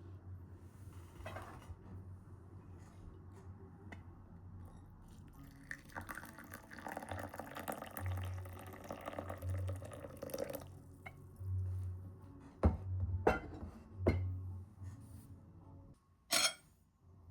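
Water running for about four and a half seconds, then several sharp knocks.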